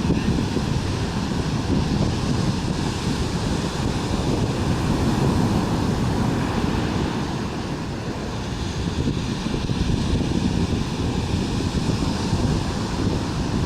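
Ocean surf washing steadily, swelling and easing a little, with wind rumbling on the microphone.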